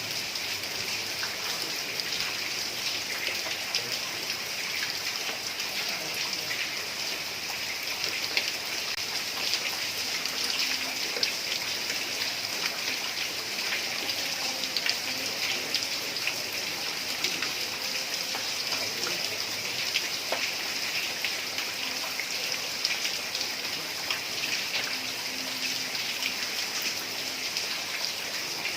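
Heavy rain pouring steadily onto roof tiles, a dense hiss with countless small drop taps.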